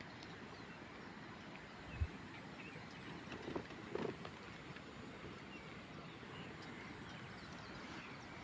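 Faint outdoor ambience with thin, distant bird chirps and a couple of soft knocks, about two and four seconds in.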